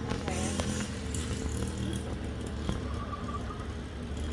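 Small dirt bike engine running steadily, with a thin buzz like a weed whacker.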